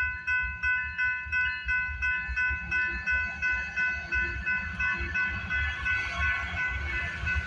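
Railway level-crossing warning bell ringing in an even rhythm of about three strokes a second, over the low rumble of a slow-moving freight train. A hiss of wheel and rail noise grows in about two-thirds of the way through as the train draws nearer.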